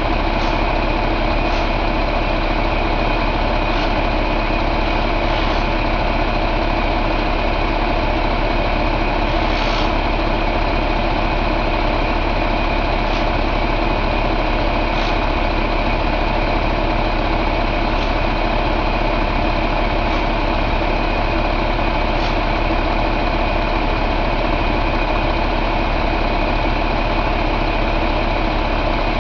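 Cummins ISX15 inline-six diesel engine idling steadily, with an even, unchanging beat.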